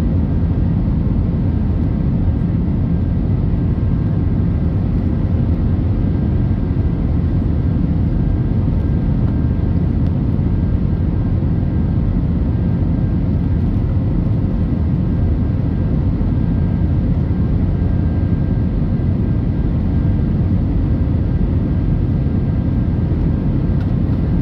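Airbus A319's jet engines running at climb power: a steady, loud rumble with a few faint high engine tones above it.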